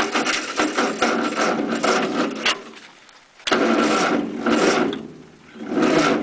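A 1948 Ford 8N tractor's four-cylinder flathead engine cranking on its 6-volt starter without catching, in three bursts: one long crank that fades out, a second that starts sharply a little past halfway and dies away, and a shorter one near the end. The battery is giving out.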